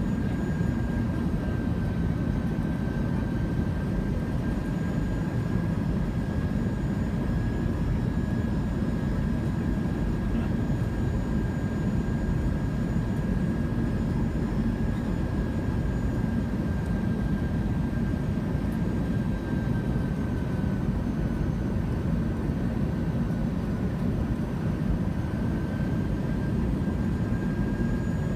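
Steady cabin noise inside an Airbus A320 jet airliner: a constant low rumble of engines and airflow with a thin steady engine whine that wavers slightly in pitch.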